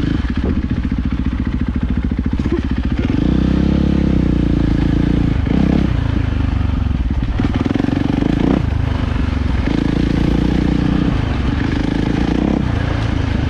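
450cc single-cylinder four-stroke dirt bike engine running on the trail, its revs rising and falling with the throttle, with a few brief swells in revs.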